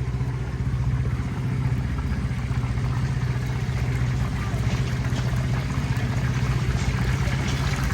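A small engine idling steadily: an unbroken low hum that holds one pitch.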